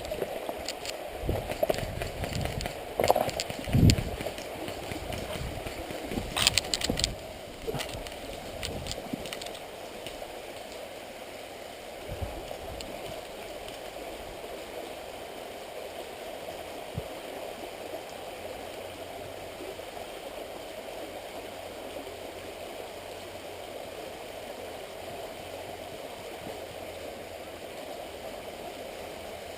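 Rustling, knocks and footfalls for the first nine seconds or so, from a head-camera wearer moving through woodland, with a short cluster of sharp clicks about six seconds in. After that, a steady outdoor hiss.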